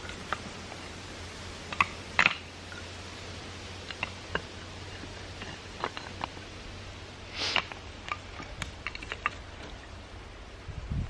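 Scattered small clicks and knocks, a dozen or so at uneven intervals with a slightly louder pair about two seconds in and a brief rustle past the middle, over a low steady hum.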